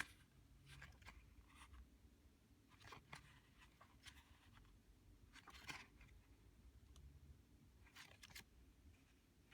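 Faint, scattered rustling and sliding of paper cards and packaging being handled, in about half a dozen short strokes over a low steady hum.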